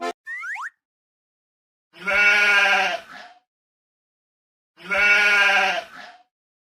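A sheep bleating twice, two long wavering calls a few seconds apart, as a cartoon sound effect. Shortly before them comes a quick rising whistle.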